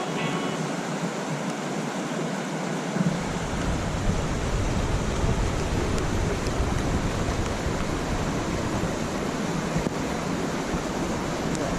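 Waterfall's steady rushing roar of falling water. From about three seconds in, wind buffets the microphone with a deep rumble.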